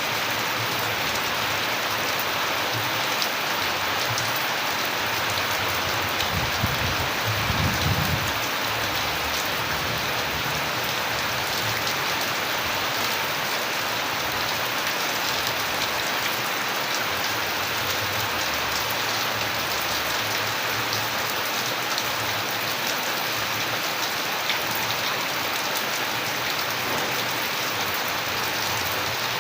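Steady rain falling on surfaces: an even, dense hiss of many drops. A brief low rumble rises under it about seven seconds in and fades within two seconds.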